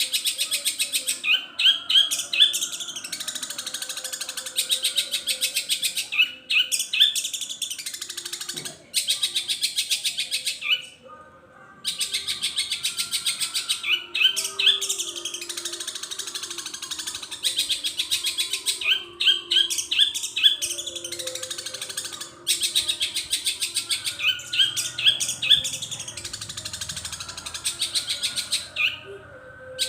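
Long-tailed shrike (cendet) singing a long, continuous song of fast repeated chattering notes, broken every few seconds by short runs of rising whistled notes, with a few brief pauses. The song is filled with calls mimicked from other birds.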